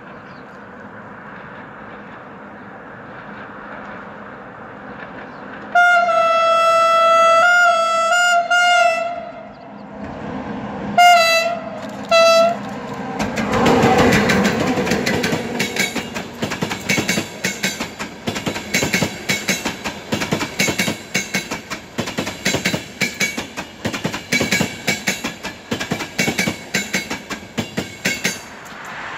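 CFR class 40 (060-EA) electric locomotive with a passenger train: a faint approaching rumble, then its horn sounds about six seconds in and is held for about three seconds, followed by two short blasts. The locomotive then passes close, the loudest moment, and the coaches' wheels click in quick rhythmic groups over the rail joints.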